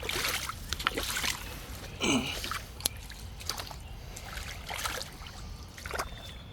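A person's footsteps wading through shallow river water and mud, a handful of irregular sloshing, splashing steps.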